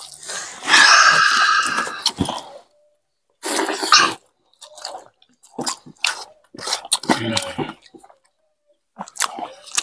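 Chewing and mouth noises of people eating rice and curry by hand, in short irregular bursts with quiet gaps between them. The loudest sound is a breathy rush lasting about a second and a half near the start.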